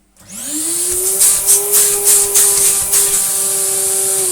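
Numatic NRV200 vacuum cleaner switched on: the motor spins up with a rising whine, then runs steadily with a loud rush of air and a few brief pulses in it. It begins to wind down right at the end.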